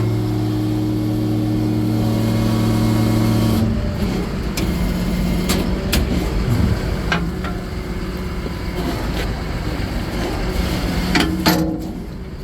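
Hydraulic system of a Bergkamp FP5 asphalt patch body running under load with a loud steady hum, which cuts off abruptly about four seconds in. After it, several sharp clicks and knocks sound over the diesel engine idling in the background.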